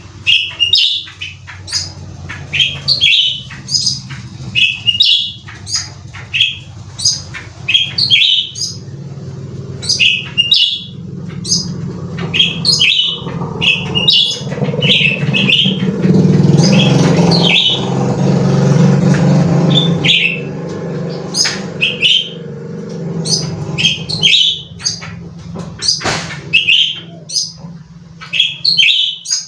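A cucak ranting songbird calling in quick, sharp chirps, with many notes a second in bouts. Under it a low rumble swells to its loudest in the middle and then fades.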